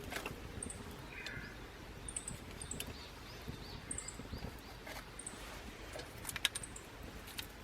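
A small bird chirping in short, high notes that repeat every second or so, over steady low outdoor noise, with a few sharp clicks, the loudest about six and a half seconds in.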